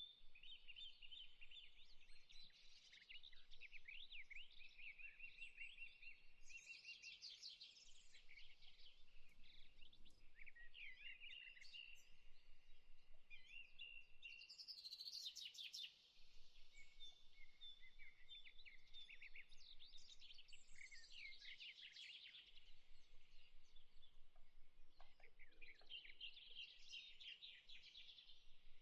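Many small birds chirping and singing at once, quietly, with quick overlapping trills and a faint steady hiss beneath.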